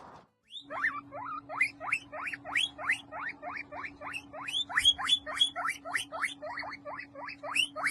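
A small animal squeaking in a rapid, even series of short rising squeaks, about three or four a second, over a steady low hum.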